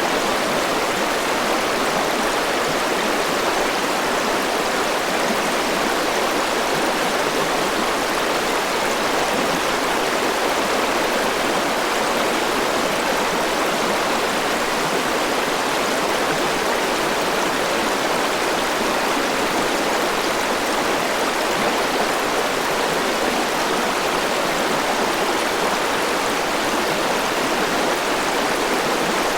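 River water rushing steadily over rocks, an even, unbroken rush of flowing water.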